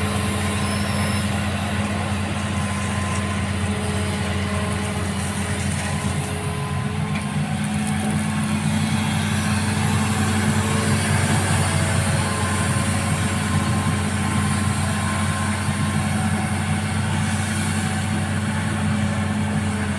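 Excavator's diesel engine running steadily, with a continuous low hum that grows a little louder partway through.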